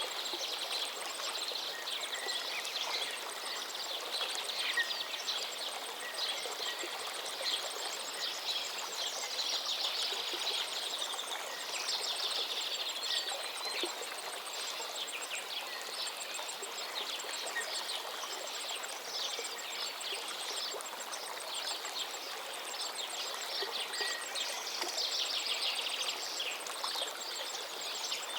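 A river flowing with a steady rush, with many birds chirping and trilling over it throughout.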